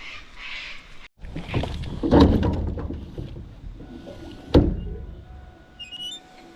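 Knocks and handling noise around a small fishing boat, with one sharp knock about four and a half seconds in and a faint steady whine after it.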